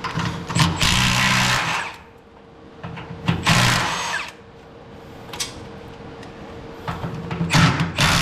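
Handheld power tool, an impact-type wrench, running in three bursts of one to two seconds each on a rusted truck body bolt.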